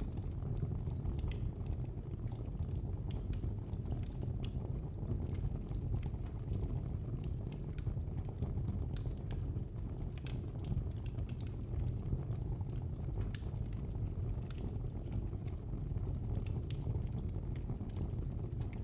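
Wood fire burning in a fireplace: sharp crackles and pops at irregular moments, several a second, over a steady low rumble of the flames.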